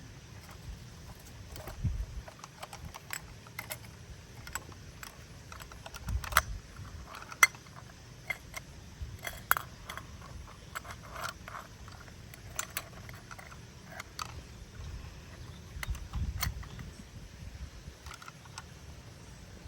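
Plastic toy garbage truck being handled and worked: irregular light clicks and clatter, with a few dull low thumps.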